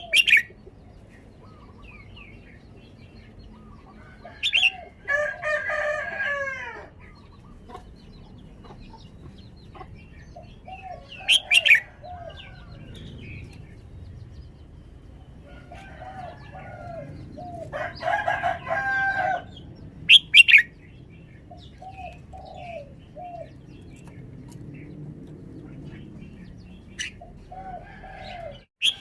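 Red-whiskered bulbul singing short, loud whistled phrases every few seconds. A rooster crows twice in the background, and soft low hoots repeat in between.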